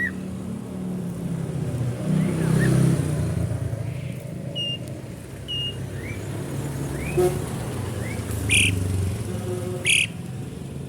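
Asian pied starling (jalak suren) calling: short rising whistles scattered through, two short high notes midway, and two loud harsh calls near the end. Under it runs a steady low rumble of road traffic.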